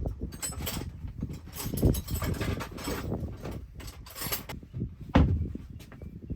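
Irregular knocking, clicking and scraping of hand tools and parts being handled during work on a vehicle, with one sharper knock a little after five seconds in.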